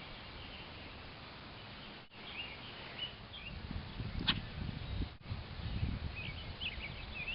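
Short high chirps of birds in two spells, with a sharp click about four seconds in and low rumbling underneath.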